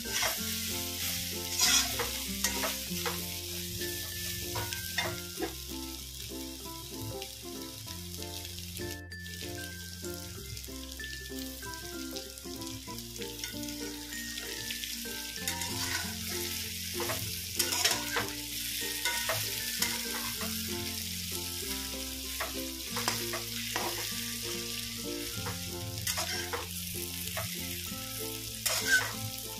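Flour-coated soya chunks sizzling as they fry in oil in a kadhai over a high gas flame, with a spatula stirring and scraping against the pan now and then.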